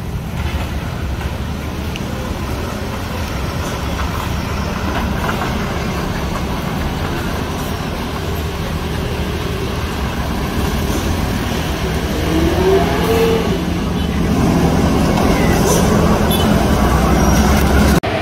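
Heavy truck engines running in slow road traffic, a steady low rumble that grows louder toward the end.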